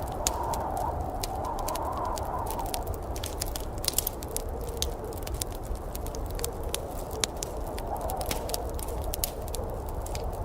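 Wood fire in a fireplace crackling, with frequent irregular sharp pops and snaps over a steady low rushing noise.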